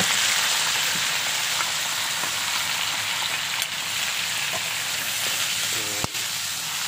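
Green and red bell pepper pieces sizzling in hot oil in a wok: a loud, steady hiss that eases slightly over the seconds. A single sharp click near the end from the metal spoon against the wok.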